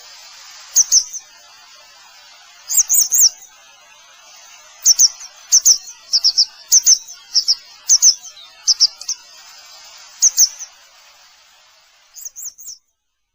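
Grey wagtail calling: short, sharp, high-pitched chirps in quick clusters of two to four, repeated every second or two over a steady hiss. The sound cuts off abruptly near the end.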